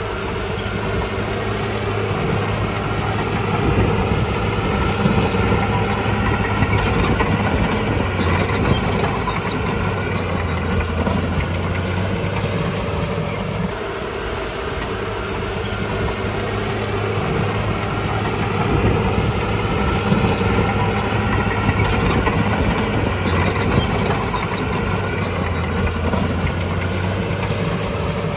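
Heavy diesel engine of earthmoving machinery running steadily, its note shifting slightly now and then, with a few brief metallic clanks.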